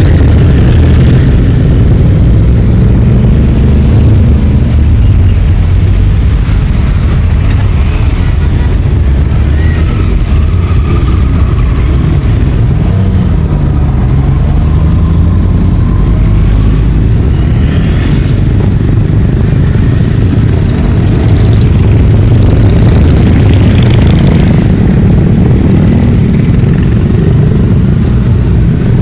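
A stream of motorcycles riding past with their engines running loud and steady, individual bikes rising and falling in pitch as they rev and pass.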